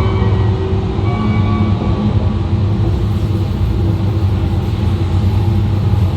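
Running noise of an E2-series shinkansen heard from the vestibule deck of a car: a steady low rumble of wheels on rail. Faint steady tones from the Mitsubishi IGBT inverter-driven traction motors sit over it in the first second or so.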